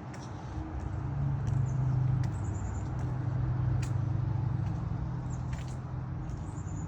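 A steady low motor hum, swelling about a second in, with a few faint clicks.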